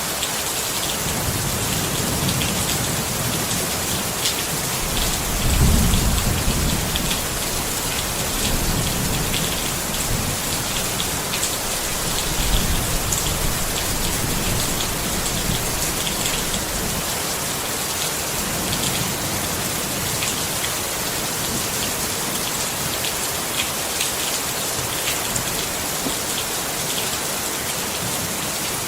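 Steady rain falling on a tent, with scattered sharper drop hits. Under it, a low rumble swells about six seconds in and again around twelve seconds, then dies away by about seventeen seconds.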